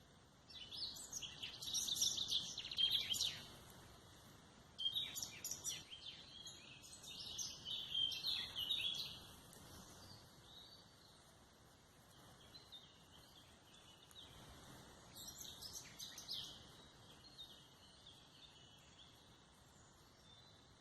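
Songbirds singing in a woodland: bursts of quick, high chirping phrases, busiest in the first half and again about two-thirds of the way in, over a faint steady outdoor hiss.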